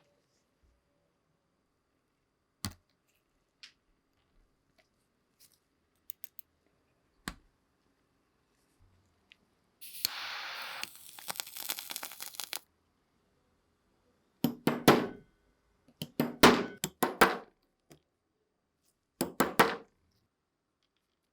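Hands working on a small vintage starter pistol: scattered light clicks, then a rustling, hissing stretch of about two and a half seconds near the middle, then three quick clusters of sharp metallic clicks in the second half.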